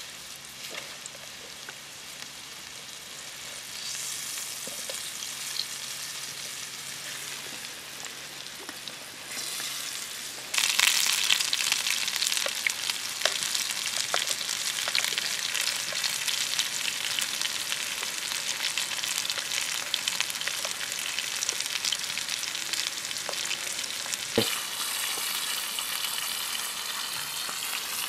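Potato chips frying in hot oil in a pan over a campfire, a steady sizzle with small clicks of metal tongs against the pan as they are turned. About ten seconds in the sizzle suddenly gets louder, and a single sharp knock comes near the end.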